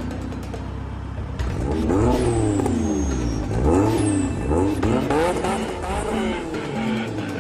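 2004 Ford Mustang's engine idling, then revved up and let fall back several times in quick succession from about a second and a half in.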